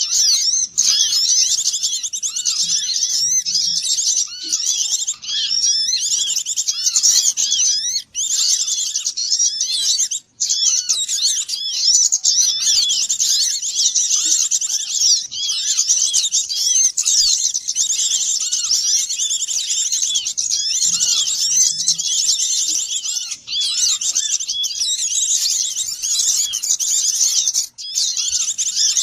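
Dense chorus of many small songbirds chirping and twittering at once, calls overlapping without pause: a bird-trapping lure recording meant to draw small birds in. It drops out briefly twice.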